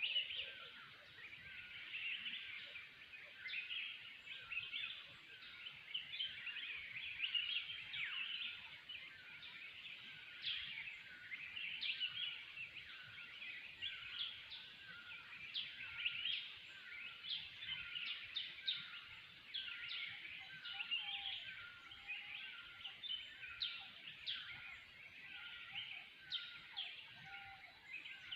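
Dense forest bird chorus: many birds of several species chirping and calling at once in quick overlapping notes, with some lower calls joining in the second half.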